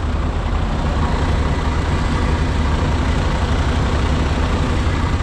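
Heavy truck diesel engine idling steadily, a constant low rumble.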